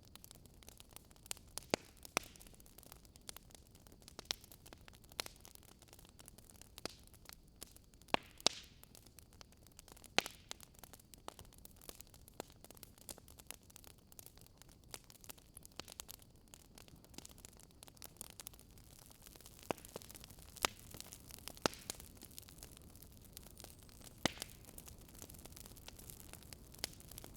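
Wood campfire crackling: irregular sharp pops and snaps, a few louder than the rest, over a faint steady hiss.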